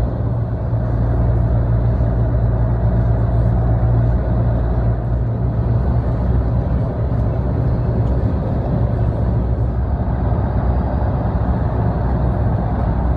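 Motor vehicle running steadily: a continuous low engine and road drone with no clear rise or fall.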